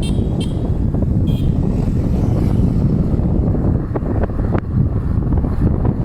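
Wind buffeting the microphone on a moving boda boda motorcycle taxi, over a steady rumble of engine and road noise.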